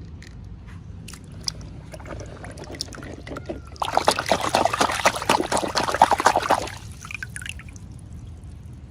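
Liquid pouring or trickling for about three seconds, starting about four seconds in, with scattered small clicks before and after.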